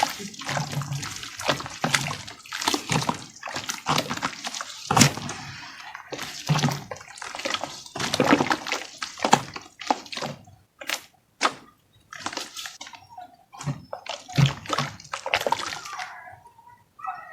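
Water-soaked crumbly chunks being crushed and broken apart: a dense run of wet crunches and sloshing squelches, thinning out with short pauses in the second half.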